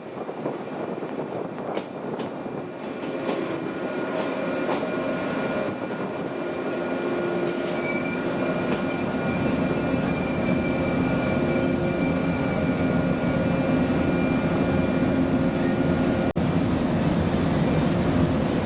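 Former JNR-type electric train running on the rails, its noise growing steadily louder. Thin high-pitched squealing tones come in for a few seconds near the middle.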